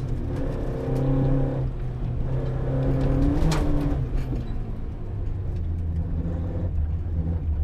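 Peugeot 205 rally car's engine heard from inside the cabin, revving up and falling away in turn as the car is driven hard between corners, with a short click about halfway through.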